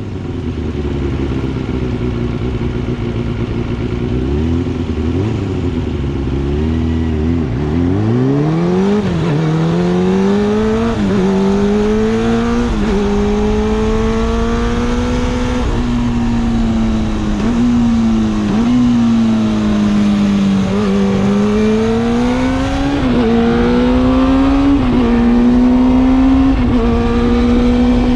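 Kawasaki Balius II's 250 cc inline-four through an RPM 4-into-2-into-1 aftermarket exhaust, running at low revs with a few small blips, then pulling away about eight seconds in. The pitch climbs and drops back with each gear change, eases off in the middle and builds again near the end.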